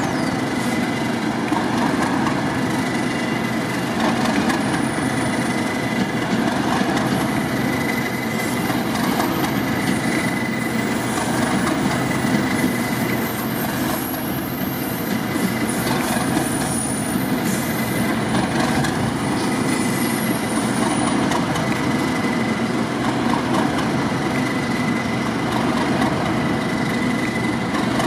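A train running at a railway station: a steady rumble with a thin high whine held throughout.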